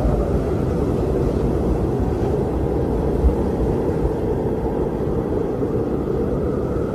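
Strong wind blowing steadily, a dense low rumble with slight gusting swells.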